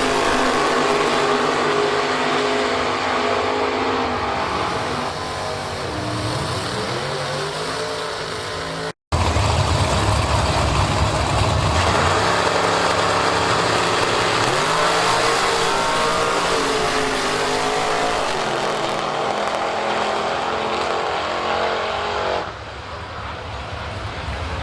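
Piston-engined drag racing cars running, their engines revving with rising and falling pitch. The sound breaks off sharply about nine seconds in, then engine noise resumes and drops quieter near the end.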